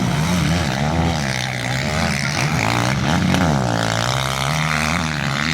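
Motocross dirt bike engines revving, their pitch rising and falling over and over, about once a second.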